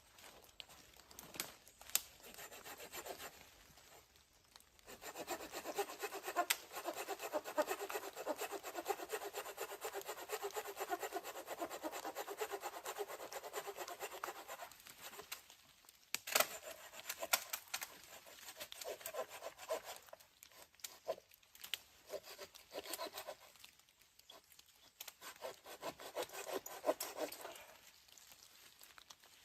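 Hand saw cutting through wood: a long unbroken run of quick rasping strokes, then shorter bursts of sawing with pauses between them.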